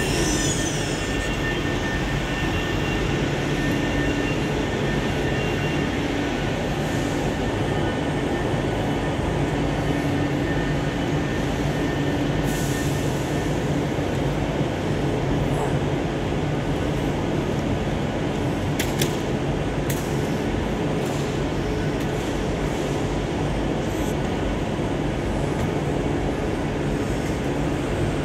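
Steady drone of trains standing and moving at a station platform: a low rumble with several held hum tones. A high wheel squeal fades out in the first second, and a single sharp clank comes about two-thirds of the way through.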